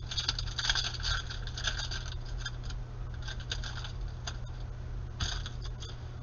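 Trading cards being slid and flipped one past another in the hand, giving a run of short scratchy rustles, with a steady low hum underneath.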